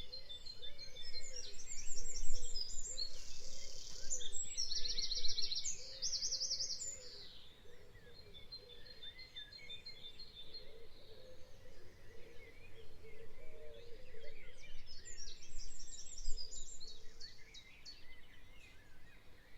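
Birds chirping and singing in quick repeated trills, loudest over the first several seconds and again about fifteen seconds in.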